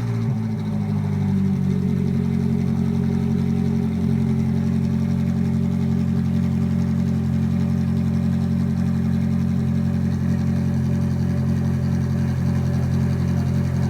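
Ferrari 458 Italia's flat-plane V8 idling steadily just after a cold start, the revs settling down over the first second or two and then holding even.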